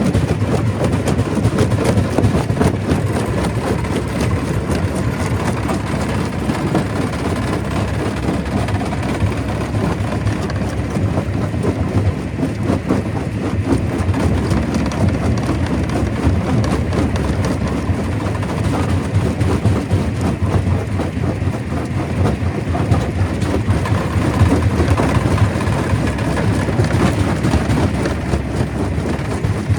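Stone crusher running: a steady low rumble with a dense clatter of rock being crushed.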